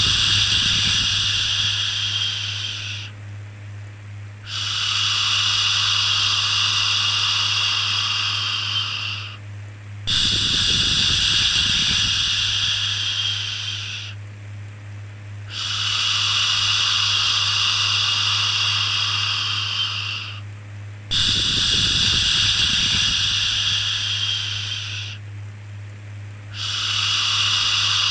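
Long 'shhh' shushing sounds, each about four to five seconds, repeating with short pauses of about a second and a half, over a steady low hum.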